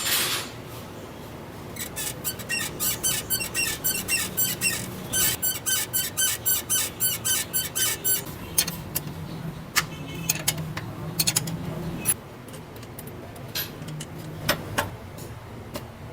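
Rapid metallic rattling from a Honda CG 125 motorcycle's body, ringing clicks at about four or five a second in two long runs, then scattered single clicks, over a faint low hum. This is the body-noise fault the repair sets out to fix.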